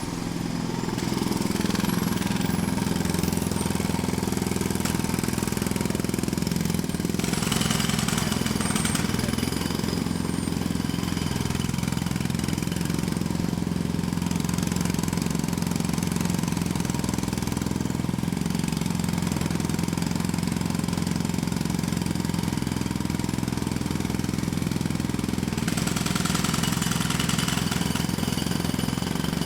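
Jackhammer running continuously at close range: a steady, rapid hammering that comes up over the first second. There are brighter, harsher stretches about eight seconds in and again near the end.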